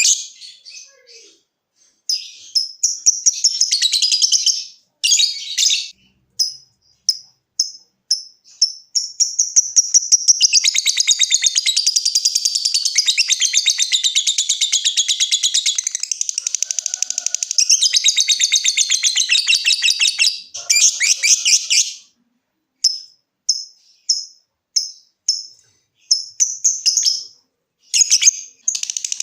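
Lovebird calling: high, separate chirps and short spurts, then a long, fast, unbroken chattering trill starting about a third of the way in, broken once briefly, that is the drawn-out 'ngekek' song. Short chirps return near the end.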